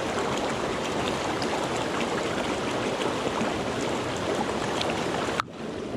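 Mountain stream water rushing steadily, with a sudden drop in level near the end.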